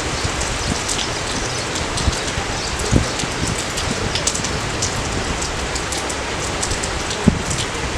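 Steady rain falling, with many scattered drop ticks and two louder thuds, about three seconds in and near the end.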